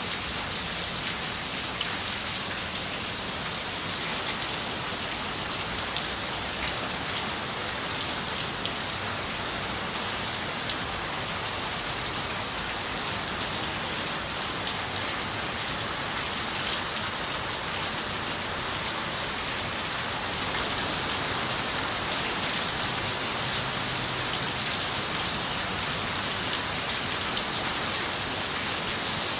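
Steady rain on a window pane: an even hiss with scattered sharp drop ticks, growing slightly louder about two-thirds of the way through.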